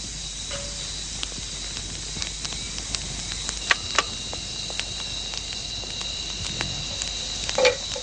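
Campfire crackling: scattered sharp pops over a steady hiss, with two louder pops close together about halfway through.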